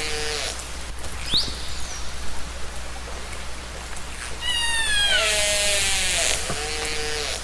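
Killer whale calls recorded underwater. A call ends on a held tone, a short rising squeal follows about a second in, then about four seconds in a new call begins with several falling squealing tones over a hiss and lasts a couple of seconds. A steady low hum runs underneath.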